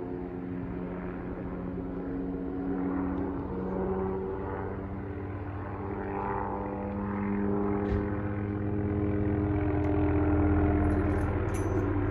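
Police helicopter circling overhead: a steady rotor and engine drone whose pitch drifts slightly, growing louder near the end as it passes closer.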